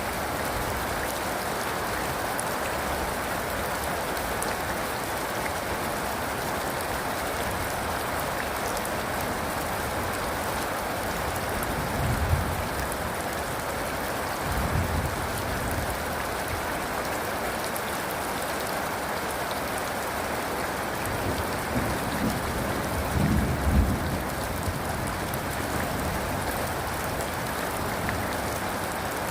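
Steady rain, with a few short low rumbles of distant thunder: two near the middle and a cluster near the end.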